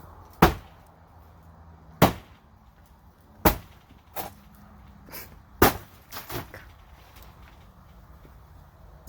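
A large knife hacking at the cat shack in sharp chops: four hard blows spaced about one and a half to two seconds apart, with a few lighter knocks between them.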